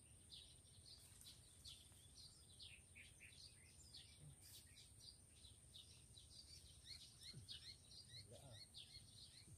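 Faint, continuous twittering of small birds: many short, high chirps every second, over a steady high-pitched whine and a low rumble.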